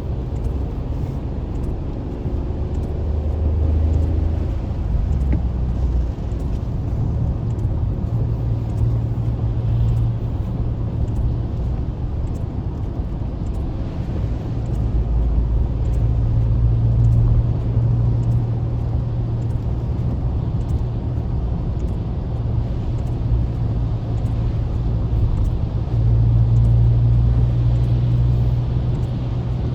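Car interior while driving in traffic: a steady low rumble of engine and tyre noise that rises and eases slightly as the car speeds up and slows.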